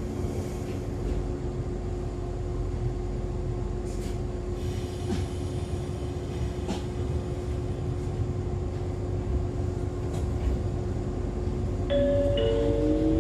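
Interior of an Echizen Railway MC6101-class railcar standing at a stop: a steady hum with one held tone and a few light clicks. Near the end, two short tones sound and a rising whine begins as the car starts to pull away.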